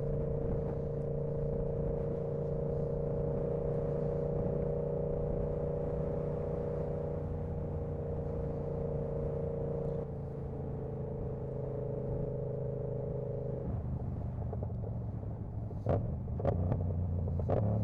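Yamaha R7's 689 cc CP2 parallel-twin engine running at a steady, even speed. Its upper tones fade about thirteen seconds in, and a few sharp clicks come near the end.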